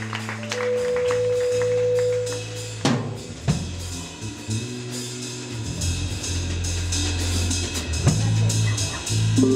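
Jazz band playing an instrumental passage: drum kit with snare, bass drum and cymbal hits over sustained bass and keyboard or guitar notes, with heavy accents about three seconds in and again near the end.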